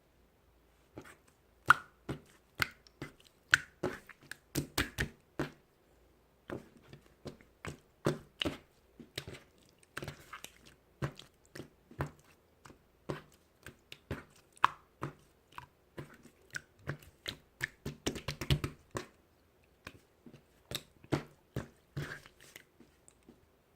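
Irregular crisp crunches and clicks, close to the microphone, one to three a second with a denser flurry about three-quarters of the way through.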